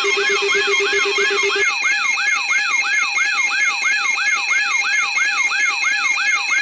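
Electronic alarm sound: a siren-like tone sweeping up and down about three times a second over steady high beeping tones, with a low pulsing buzz underneath that stops about a second and a half in.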